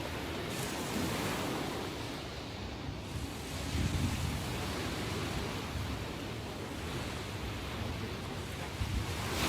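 Ocean waves breaking and washing on the shore, the surf swelling louder about a second in and again around four seconds, in the rough sea after a typhoon. Wind on the microphone adds a low rumble.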